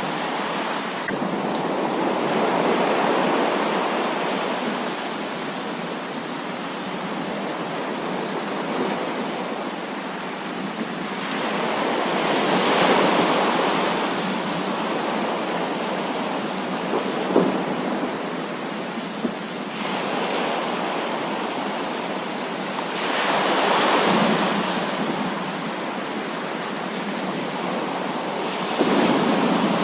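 Heavy rain pouring steadily in a thunderstorm. Thunder rolls swell up over it several times, roughly every ten seconds, and a couple of short sharp cracks come near the middle.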